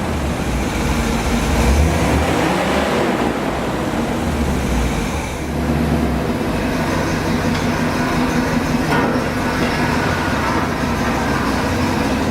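A motor vehicle running, with a steady engine rumble and road noise that changes character about halfway through.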